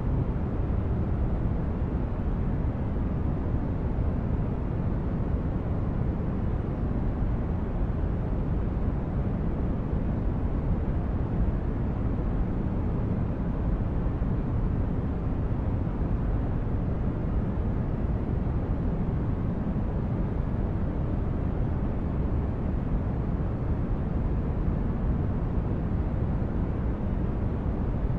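Steady sleep-aid noise: an even hiss weighted toward the bass, without change, pulse or tone.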